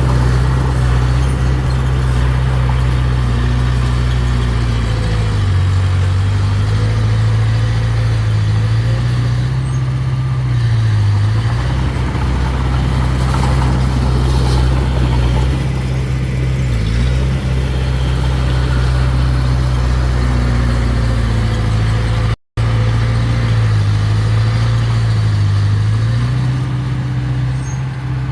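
Mini bulldozer's diesel engine running steadily, its low note dipping and recovering several times. The sound cuts out for an instant about three quarters of the way through.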